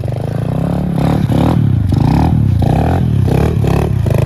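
Apollo pit bike engine running and revving, its pitch rising and falling several times.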